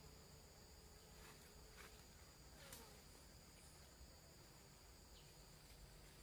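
Near silence, with a faint, steady, high-pitched insect drone running throughout.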